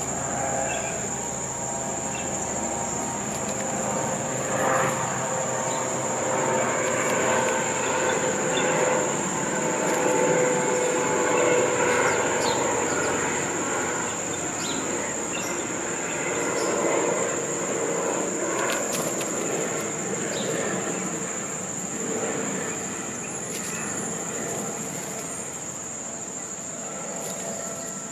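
Steady high-pitched drone of an insect chorus, under a louder rumbling noise that carries a few held tones, swelling through the middle and easing off toward the end.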